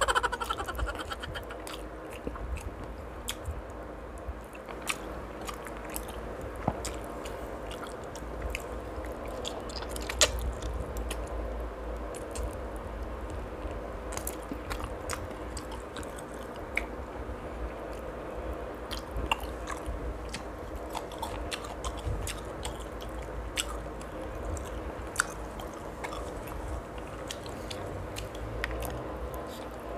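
Close-miked chewing and mouth sounds of a person eating with his fingers, with many small clicks and crunches scattered throughout.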